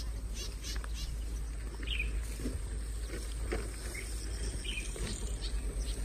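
Birds calling in the open with scattered short chirps, over a steady low rumble of wind on the microphone.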